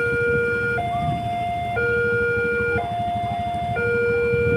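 Railway level-crossing warning alarm sounding as the gate barrier is lowered: an electronic two-tone signal alternating high and low, about one tone per second, with a low rumble underneath.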